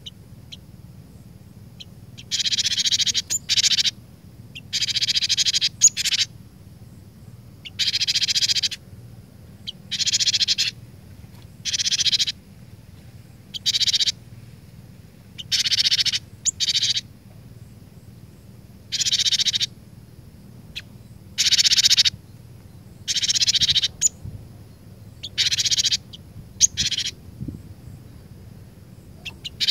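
Cinereous tit (glatik batu) singing: short phrases of rapid repeated notes, each about half a second to a second long, repeated every two seconds or so, over a faint steady low hum.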